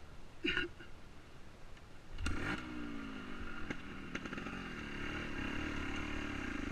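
Trials motorcycle engine catching about two seconds in, after a short sound near the start, then running steadily with small rises and falls in pitch.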